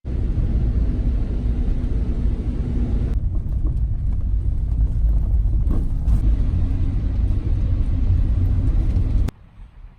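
Steady low rumble of a vehicle driving, as road and engine noise, cutting off abruptly about nine seconds in to a much quieter, uneven background.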